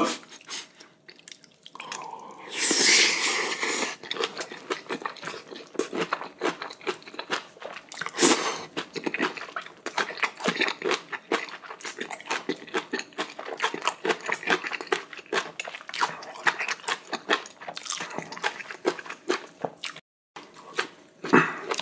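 Close-up wet chewing of a mouthful of braised kimchi and rice: rapid smacking and crunching clicks throughout, with a loud hiss lasting about two seconds starting about two seconds in.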